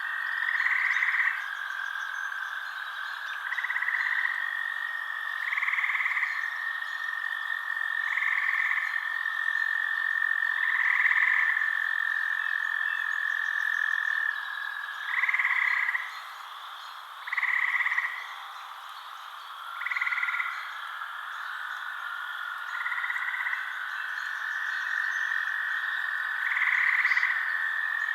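Frogs calling at night: a louder call repeats about every two seconds over a steady, unbroken high trill.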